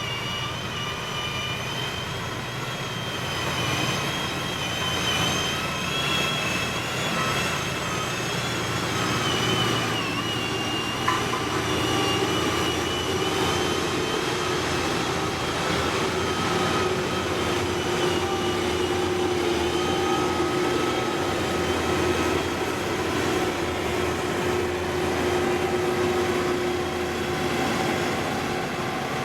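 Heavy diesel road-construction machinery running steadily, a low engine rumble with a high whine over it. A single sharp click about eleven seconds in.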